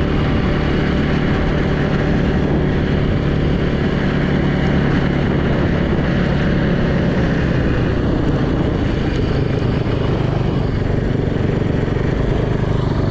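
Yamaha YZ450 dirt bike's single-cylinder four-stroke engine running steadily under way, heard from a helmet-mounted camera with wind rush over the engine note.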